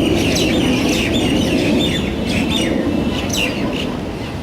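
Many birds calling together, a quick run of short, sharply falling calls several times a second, over a steady low background noise.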